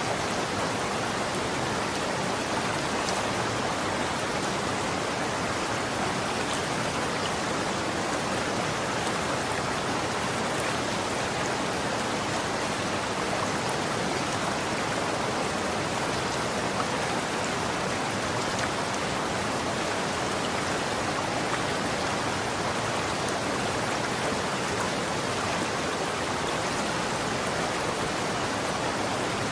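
Running water flowing steadily: an even rushing hiss with no breaks or changes.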